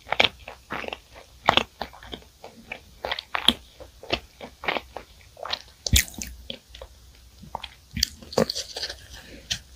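A person chewing crisp, flaky pastry close to the microphone, with irregular crunches about one or two a second. Near the end, a brief rustle as gloved hands handle a large sugar-dusted loaf.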